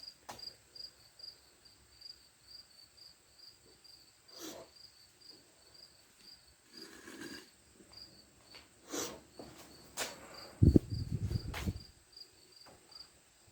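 A cricket chirping steadily, about three chirps a second, over scattered clicks and knocks of workshop handling, with a louder thump about ten and a half seconds in.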